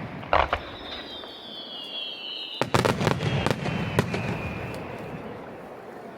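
Aerial fireworks bursting: a sharp bang about half a second in, then a rapid cluster of bangs from about halfway through, with a high whistle slowly falling in pitch over several seconds.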